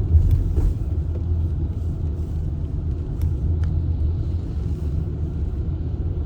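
Steady low rumble of a car driving, engine and tyre noise heard inside the cabin.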